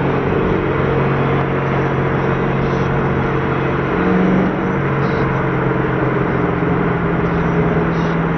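Car engine drone and road noise heard from inside a moving car, with the engine note stepping up in pitch about halfway through and holding there as the revs rise.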